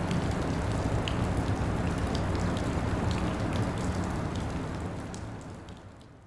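City-alley rain sound effect: steady rain with scattered individual drop ticks, fading smoothly away over the last two seconds as the rain cue is faded out and stopped.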